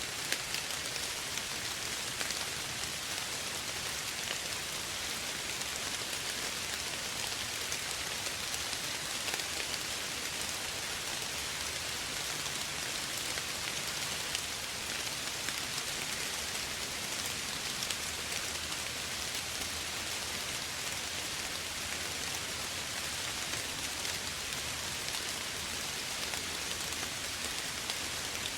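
Steady soft rain falling, with the patter of drops on surfaces.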